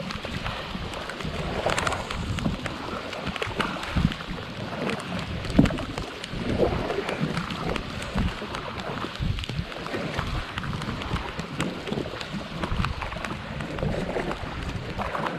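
Heavy rain falling on the water and the kayak, many small drop hits, with gusts of wind buffeting the microphone.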